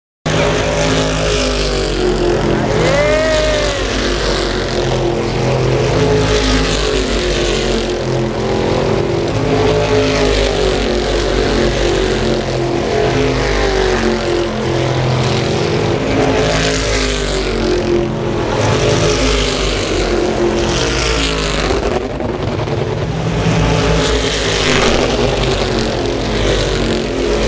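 A field of stock car race cars running at speed on the circuit, their engines rising and falling as cars pass one after another in a steady stream.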